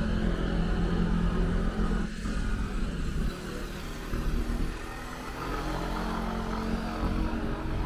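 A car engine running with a steady low hum, a little quieter after about three seconds.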